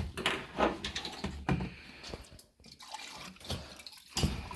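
Liquid splashing and dripping with small irregular knocks and clicks: an oil filter cap being rinsed out with petrol.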